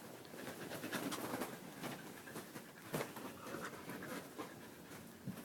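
Siberian husky panting close up, with rustling and a sharp click about three seconds in.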